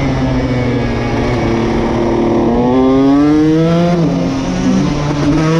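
2021 KTM SX 150 two-stroke motocross engine revving under throttle while riding. Its pitch climbs steadily for about a second and a half, drops about four seconds in, then climbs again near the end.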